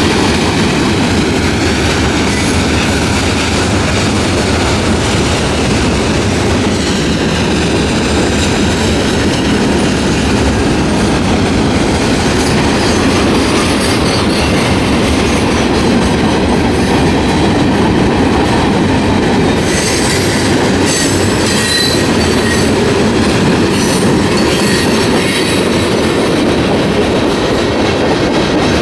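CSX freight train cars rolling past: a steady loud rumble of steel wheels on rail with rail-joint clacking and thin, rising-and-falling wheel squeal. A run of sharp metallic clanks comes about twenty seconds in.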